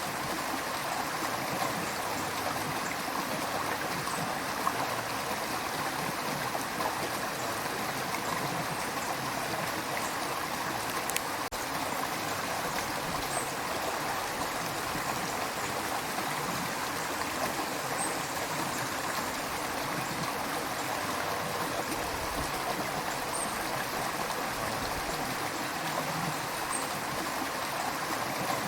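River water flowing over stones: a steady babbling and gurgling rush with no breaks.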